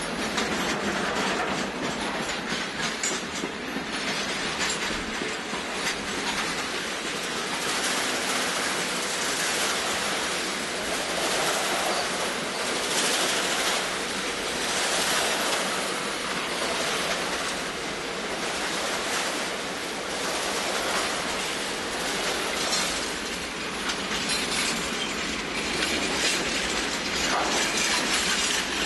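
Freight wagons of a steel train rolling past at speed: a steady rush of steel wheels on the rails that swells and fades every second or two as each wagon's bogies go by.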